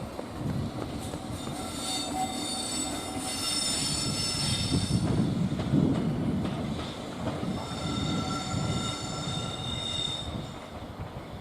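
A train rolling slowly on rails with a rumble, its wheels squealing on the rails in two spells of high-pitched ringing squeal.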